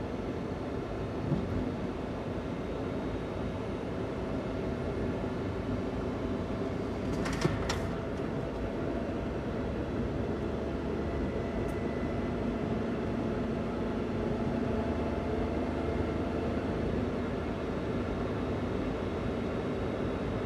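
Daihatsu Hijet kei van's three-cylinder engine running steadily while driving, on stock intake and exhaust, with road noise under it. A short knock comes about a second in, and a brief clatter of sharp clicks about seven seconds in.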